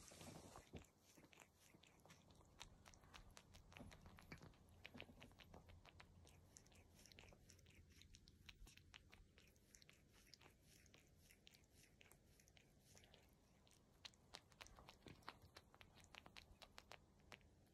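Cat grooming itself: faint, rapid licking strokes of its tongue over its fur, heard as a dense, irregular run of small clicks, several a second.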